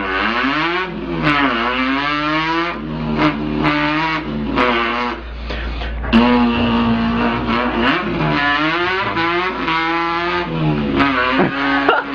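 A person imitating a car engine with his voice, the pitch climbing as if revving up through the gears, then dropping back and climbing again several times.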